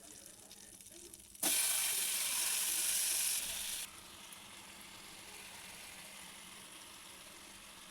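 Marinated chicken frying in a hot pan, sizzling. The sizzle starts suddenly and loud about a second and a half in, then after a couple of seconds drops to a steady, quieter sizzle.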